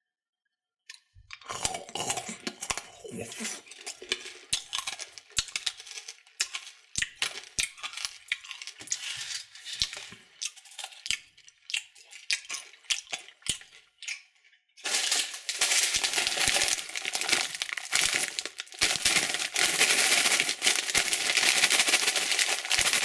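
Plastic candy wrappers and packaging being handled and opened: irregular crackling and clicking that starts about a second in, then turns into denser, louder crinkling about two-thirds of the way through.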